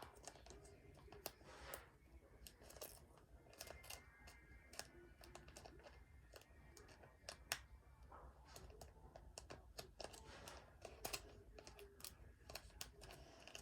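Faint, irregular clicks and light rustling of trading cards and their packaging being handled.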